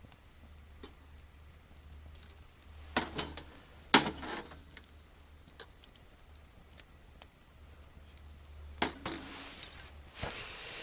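A few sharp knocks and clatters, the loudest about four seconds in, with scattered small ticks between them over a faint low hum.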